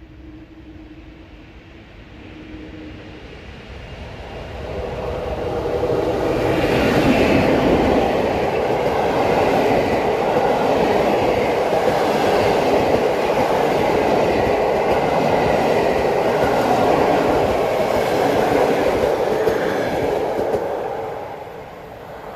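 A train passing close by on the rails: its sound builds over a few seconds, runs loud and steady for about fifteen seconds, then falls away near the end.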